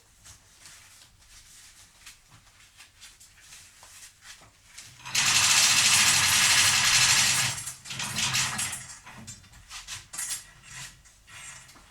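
Light clicks and handling noises, then about five seconds in a loud power tool runs for about two and a half seconds and stops. Several shorter bursts follow.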